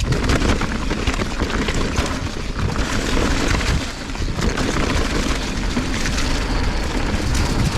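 Mountain bike clattering down a rock garden: tyres, frame and chain rattling and knocking over rocks in a dense stream of hits, with heavy wind buffeting on the camera microphone.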